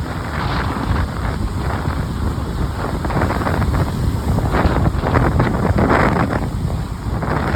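Strong wind, about 35 to 40 mph, buffeting the microphone in heavy gusts, with surf breaking on the beach behind it.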